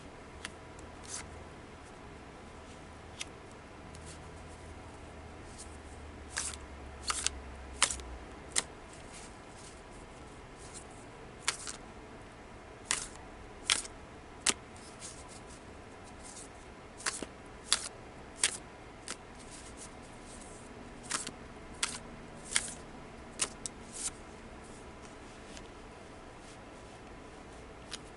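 Tarot cards being handled and laid out: a long series of irregular, sharp card snaps and taps, some in quick pairs.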